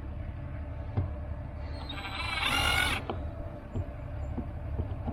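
A wooden chicken coop door creaking once, for about a second, in the middle, while it is being worked on. Its screws spin in their holes without tightening. Light knocks of handling are heard around it.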